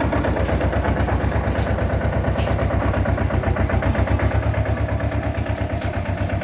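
Mini tractor engine running steadily, with a fast, even pulse of firing strokes.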